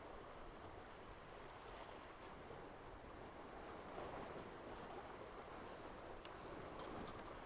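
Faint, steady rush of water and wind as a Tornado racing catamaran sails along, with a couple of brief hisses near the end.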